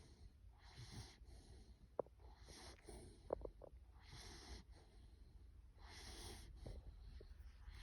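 Bulloxer puppy (English bulldog–boxer cross) snoring softly in its sleep: faint, wheezy breaths about every one and a half to two seconds, with a few short squeaks between them.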